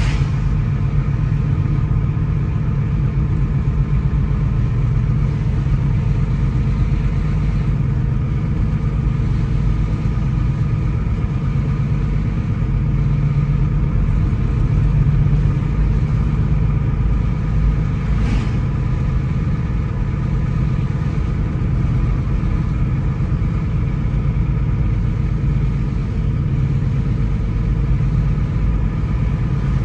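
Car driving along a road: a steady low engine and road-noise rumble with a faint engine hum over it, and a brief swish a little past halfway.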